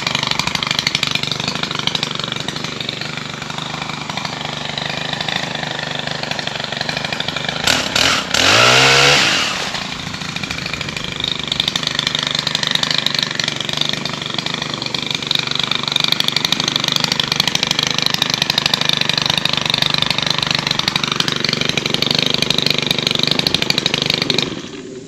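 Stihl HT 135 gas pole saw running and cutting tree limbs. It revs up sharply with a rising whine about eight seconds in, then carries on running until the engine cuts off near the end.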